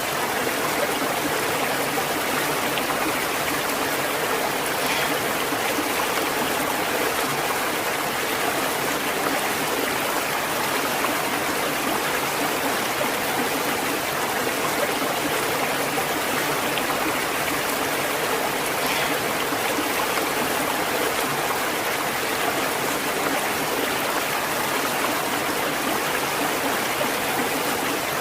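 A stream of running water flowing steadily, an even rushing babble with no let-up.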